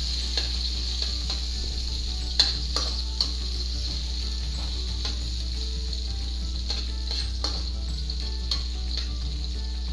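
Sliced onions and garlic sizzling in hot oil in a wok while a metal spatula stirs them, scraping and clicking against the pan, with one sharp clack about two and a half seconds in.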